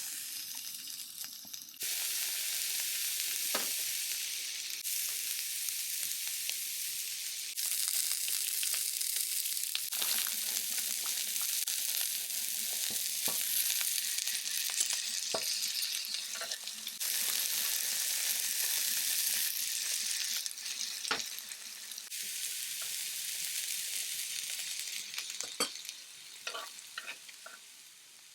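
Food sizzling as it fries in a pan, with a utensil now and then clicking and scraping as it is stirred. The sizzle dies down near the end.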